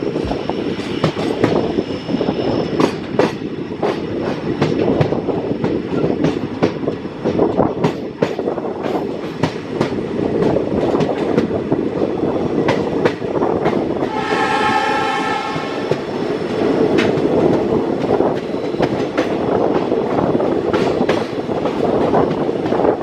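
Passenger train running on the rails, its wheels clattering steadily over the rail joints. Its horn sounds once, for about a second and a half, about fourteen seconds in.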